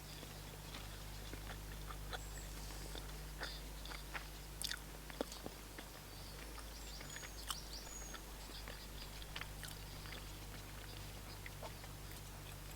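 A person chewing and biting food close to the microphone, with many short crunchy clicks scattered through, and birds chirping faintly now and then.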